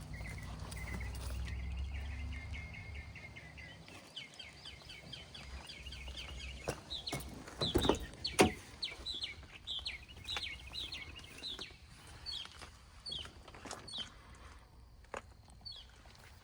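Birds chirping, a trill at first, then repeated short high chirps. Under them a low steady rumble cuts off about four seconds in, and two sharp knocks come a little past halfway.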